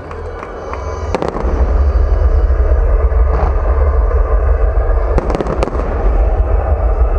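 Fireworks display: deep, rumbling booms of shell bursts with sharp cracks on top, growing louder about a second in.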